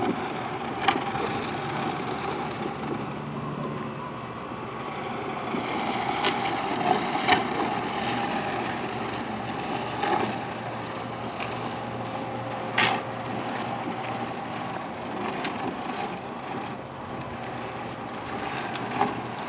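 Hard plastic wheels of a child's battery-powered ride-on toy car rolling and grinding over rough ground as the flat-batteried car is pushed by hand, with a few sharp knocks along the way.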